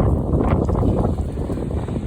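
Strong gusty wind buffeting the microphone as a low rumble, easing off steadily as the gust passes.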